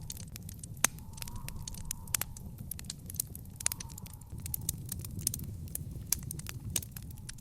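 Wood fire in an outdoor fire pit crackling, with frequent irregular sharp pops and snaps over a low steady rumble; one of the loudest pops comes about a second in.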